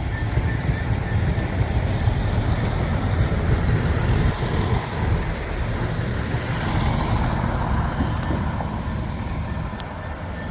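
CrossCountry diesel multiple unit running through the station, its underfloor diesel engines and wheels giving a steady deep rumble that eases off near the end.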